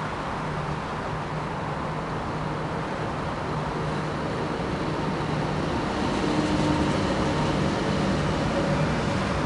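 SS1 electric locomotive hauling a freight train past, a steady hum and rumble that grows louder as the locomotive passes and its freight wagons follow, mixed with road traffic.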